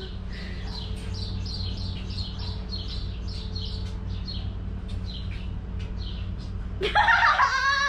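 A bird singing a quick series of short, high, falling chirps, about three a second, over a steady low hum. Near the end a louder call that rises in pitch takes over.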